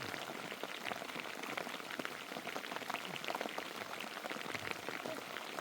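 Steady heavy rain: a dense, even patter of drops.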